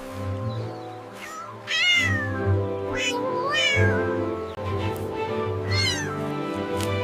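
A cat meowing several times, short calls that bend in pitch, over background music with steady held tones.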